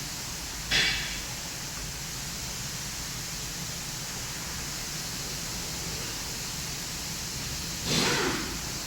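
Steady background noise, broken twice by a short hissing burst that starts sharply and fades: once about a second in and once near the end.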